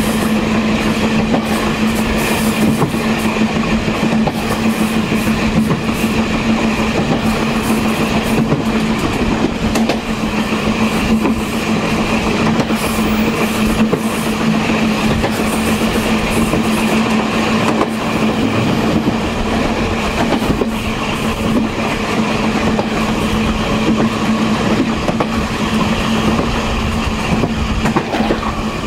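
Taiwan Railways Chu-Kuang express train rolling along the track, heard from inside its rear parlor car: a steady hum over continuous running noise, with scattered clicks from the wheels on the rails.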